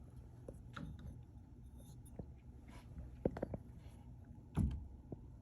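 A cat eating dry food: small crunching clicks and scratches, with a quick run of clicks about three seconds in and a dull thump near the end.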